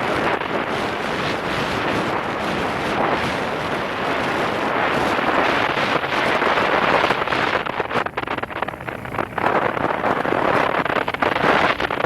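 Wind buffeting the microphone: a loud, steady rushing noise that dips briefly a few times near the end.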